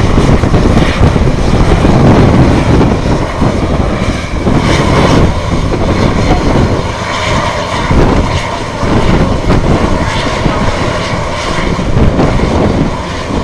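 Airbus A400M's four turboprop engines running at taxi power: a loud, steady drone with a rumble that wavers in level.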